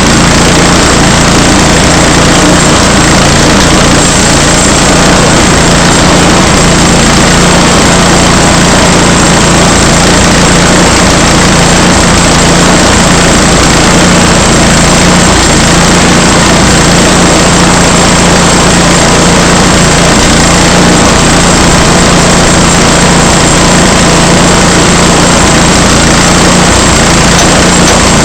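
Portable sawmill's gas engine running loud and steady, with no change in speed.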